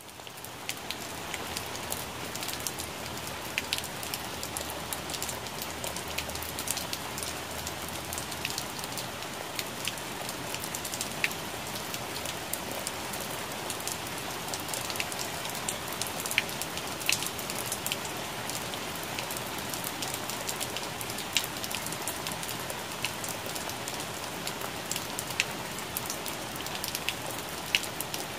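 Rain falling on plant leaves: a steady hiss of rainfall with many separate drops ticking on the leaves at irregular moments. It fades in over the first second.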